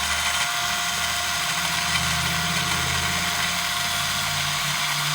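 Power drill running steadily with a whine, boring out an undersized hole in a short-throw shifter part that was machined slightly wrong.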